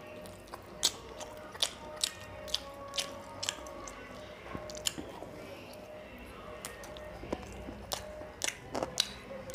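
Close-miked chewing and biting on a piece of curried chicken: sharp, wet mouth clicks and smacks at irregular intervals, over soft background music.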